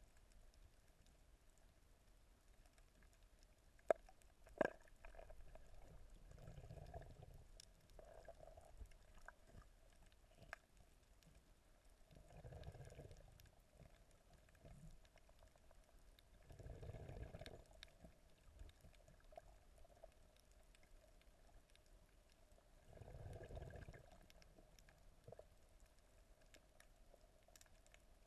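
Faint, muffled underwater sound: a low rushing swell about every five seconds, with two sharp clicks about four seconds in, over a faint steady hum.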